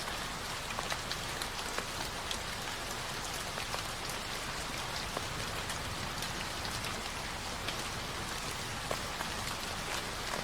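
Steady rain falling on a surface, an even hiss with many scattered drop ticks; a recorded rain ambience track.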